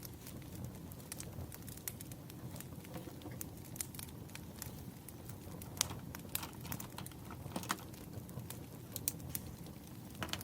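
Wood fire burning, with irregular crackles and pops over a low, steady rumble.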